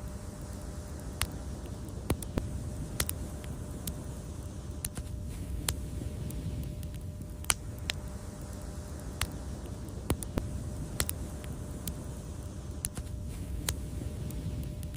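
Wood fire burning with a steady low rumble of flames and sharp, irregular crackles and pops, roughly one a second.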